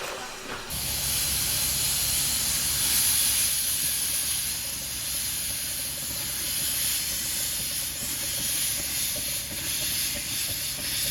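Steam locomotive letting off steam: a steady hiss that starts about a second in, with a low rumble underneath.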